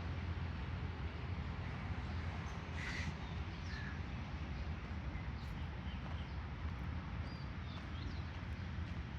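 Small birds chirping now and then, in short, faint calls, over a steady low background hum.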